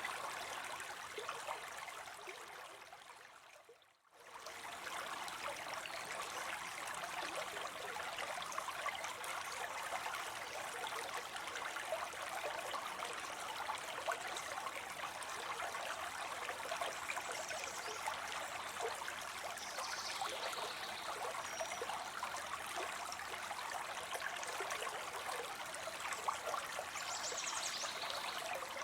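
Water spilling into a pond, a steady splashing trickle. About four seconds in it fades out almost to silence and comes straight back.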